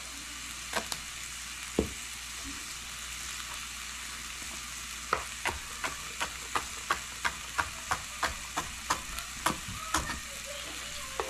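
Peppers and onions sizzling steadily as they fry in oil in a pan. About halfway through, a run of quick, light knocks sets in, about three a second, for some five seconds.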